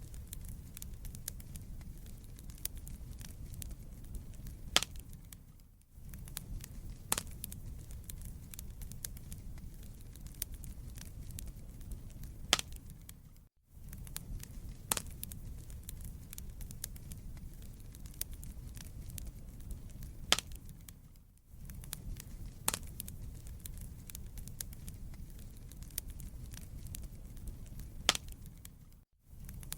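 Wood fire burning in a fireplace: a steady low rumble of flame with constant small crackles and a louder sharp pop every few seconds. The sound dips briefly to near silence about every seven to eight seconds.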